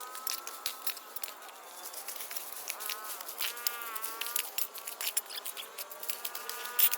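An insect buzzing, its pitch wavering and dipping as it moves about, over scattered light ticks.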